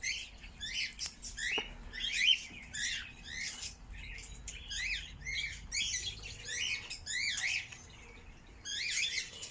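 Aviary birds chirping: many short, high chirps that rise and fall in pitch, several a second, with brief pauses.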